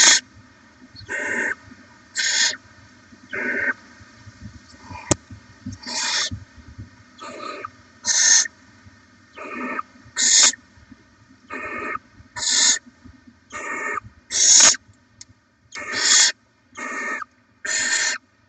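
Barn owl owlets giving harsh, hissing begging calls in a steady series, about one call a second, with a single sharp click about five seconds in.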